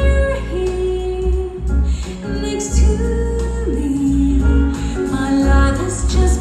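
A song with a female singing voice and heavy, pulsing bass, played through an aftermarket car audio system.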